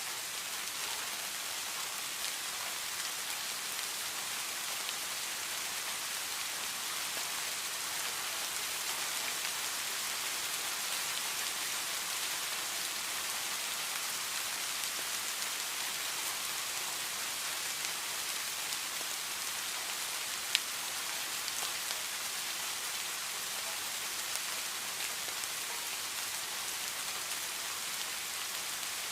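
Heavy rain falling steadily, an even hiss strongest in the upper range, with a single sharp tick about two-thirds of the way through.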